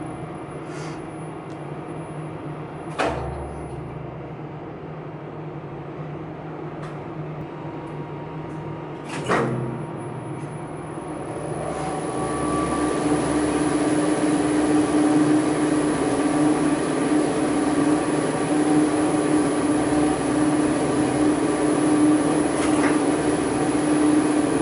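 Elevator machine-room equipment humming steadily, with two sharp clacks about 3 and 9 seconds in. From about 12 seconds the machinery runs louder, a steady hum with a held tone.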